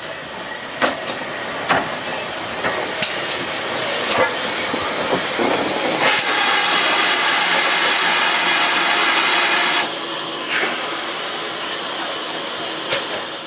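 Steam locomotive on the line: a series of sharp clanks and knocks, then about six seconds in a loud hiss of escaping steam starts abruptly and cuts off sharply after about four seconds.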